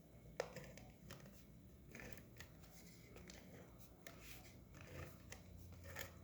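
Near silence with a few faint taps and rustles of paper card stock being handled and pressed down.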